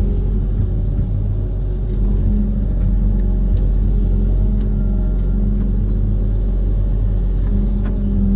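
Diesel engine of a Kobelco SK130 amphibious excavator running steadily with a low hum, rising slightly about two seconds in, with a few faint clicks.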